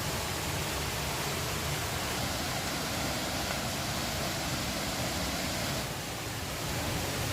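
Steady rushing of river water, an even hiss with no distinct events, dipping slightly for a moment about six seconds in.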